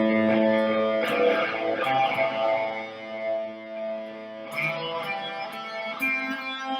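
Electric guitar played slowly through effects, long sustained notes ringing out with rich overtones, moving to a new note a few times.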